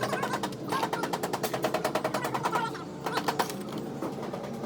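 Rapid mechanical rattling hammering, a long burst and then a shorter one after a brief pause.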